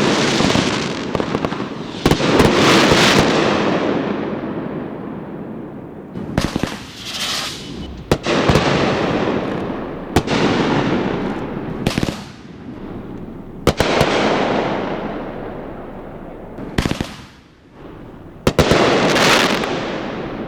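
Aerial fireworks shells bursting in a run of about nine sharp booms, mostly a couple of seconds apart. Each boom is followed by a long rolling rumble that fades away.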